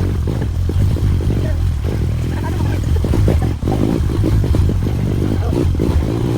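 A motorcycle running under way, a steady low engine rumble with many small knocks and rattles through it.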